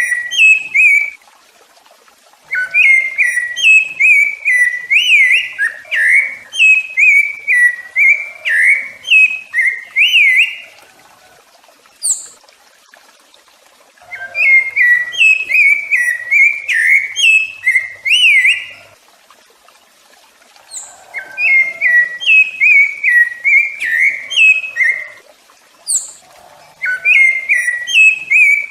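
Rufous-bellied thrush (sabiá-laranjeira) singing: rich whistled phrases of quick up-and-down notes, in bouts of several seconds with short pauses between them. A few short, sharp high notes fall in the pauses.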